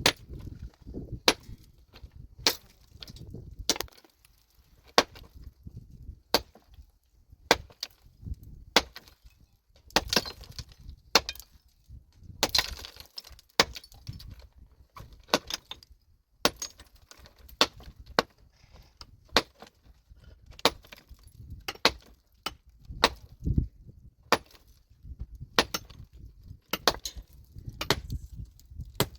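Pickaxe striking rock again and again, a sharp metallic blow about every second and a quarter in a steady working rhythm, with fainter knocks of chips and loosened stone between the strokes.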